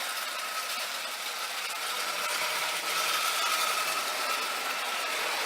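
Marx No. 999 O-gauge toy locomotive running along the track, its electric motor giving a steady whine over a hiss of wheels and gears, a little louder around the middle. The engine is struggling with its train: without a traction tire its drive wheels slip on the rails, which the owner puts down to poor footing rather than the track.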